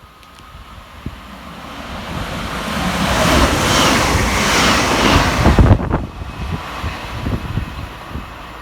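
Northern Class 323 electric multiple unit passing fast without stopping. The rushing noise of wheels and air builds over a few seconds, peaks, and cuts off sharply about six seconds in as the train clears, leaving a fading rumble and wind buffeting the microphone.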